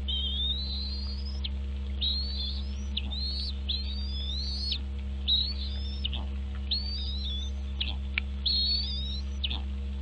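A bird calling over and over: about eight short, high whistled calls, each sliding upward in pitch, roughly one a second, over a steady low hum.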